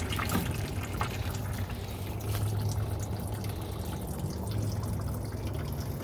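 Water pouring down through holes in an old can and trickling into a distilled-water jug as it fills, steady throughout.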